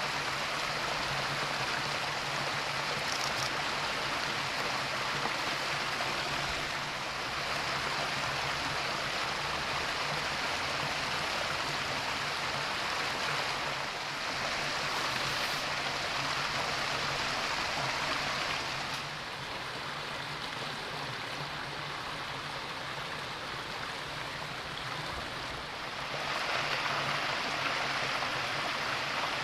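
Shallow river water rushing steadily. The rush grows a little quieter about two-thirds of the way through and comes back near the end. A faint steady low hum runs underneath.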